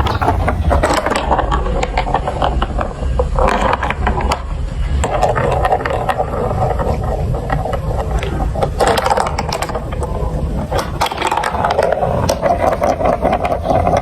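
Marbles rolling and clattering through a plastic marble run: a continuous rolling rumble broken by many sharp clicks as the balls hit the track pieces.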